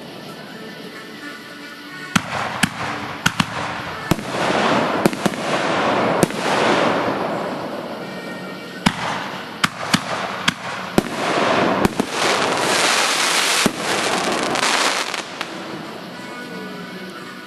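Fireworks going off: a quick series of sharp bangs mixed with long crackling fizz, starting about two seconds in and dying away shortly before the end.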